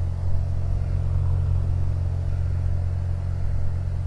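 Piper Cherokee's engine and propeller running at full takeoff power: a steady low drone heard from inside the cabin.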